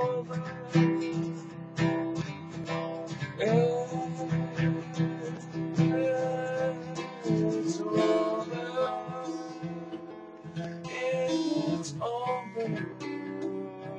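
Acoustic guitar strumming slow chords, with a gliding melody line held over them that swells a few times.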